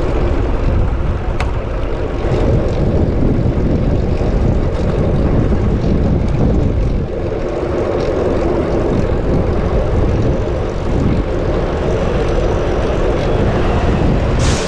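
Steady wind rush buffeting an action camera's microphone while riding a bicycle at speed, a low rumbling noise with no clear tone.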